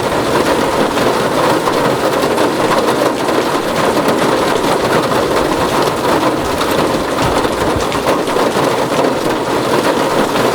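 Rain falling steadily on a tin roof, a dense, even rush of drops.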